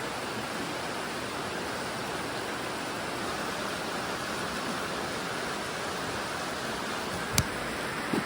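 Steady, even rush of water, like rain or a stream, with a single sharp tap near the end.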